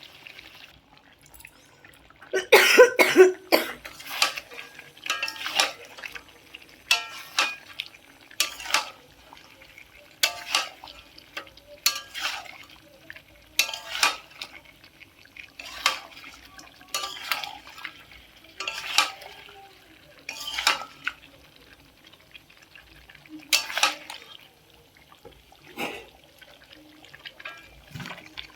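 Spatula stirring and scraping chicken in a metal cooking pan, in short strokes about every one and a half seconds, with a louder clatter of several strokes about three seconds in.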